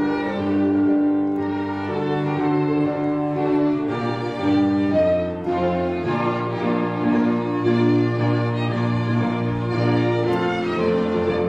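National anthem performed by a string ensemble, with violins and cellos playing sustained chords that change every second or so.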